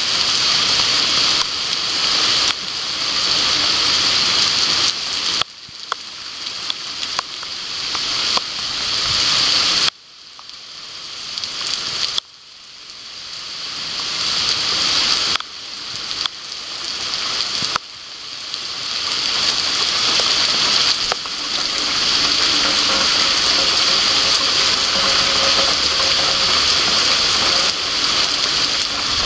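Heavy rain pouring down on concrete walkways and lawn, a dense steady hiss of drops. Several times the hiss drops away suddenly and swells back up over a few seconds, then holds steady through the second half.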